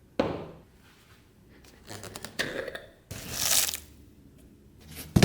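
Hand work on a small object: a few separate scraping, rustling strokes, one hissier and longer about three seconds in, then a sharp knock near the end.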